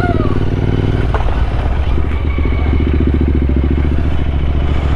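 Royal Enfield Interceptor 650's parallel-twin engine running steadily, with a short click and a brief change in the engine note about a second in.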